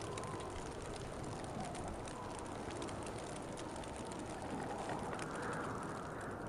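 Winter wind blowing steadily with a wavering whoosh that swells into a stronger gust about five seconds in. Light, fine ticking runs through it.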